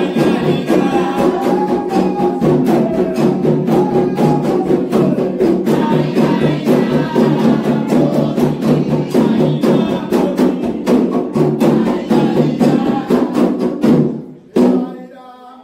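Candomblé ritual music: atabaque hand drums playing a fast steady rhythm with a struck bell and group singing over it. The music breaks off suddenly about a second before the end.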